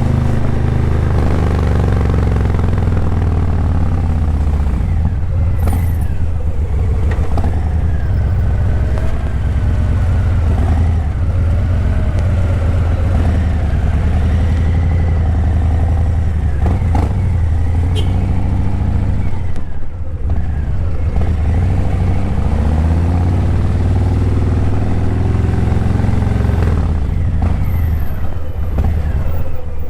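Harley-Davidson Breakout 117's Milwaukee-Eight 117 V-twin running through Vance & Hines Eliminator 300 slip-on mufflers, a deep steady rumble while riding, its pitch rising and falling as the throttle opens and closes. The engine note dips briefly about twenty seconds in, then rises again.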